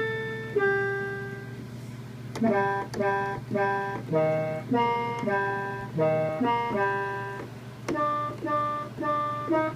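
Arturia MiniBrute analog synthesizer playing a melody of short, plucky notes: low-pass filter with some resonance, Brute Factor off, and the envelope sweeping the filter with a very brief decay, giving a smooth tone without much harshness. A longer note first, a short pause about two seconds in, then a quick run of notes.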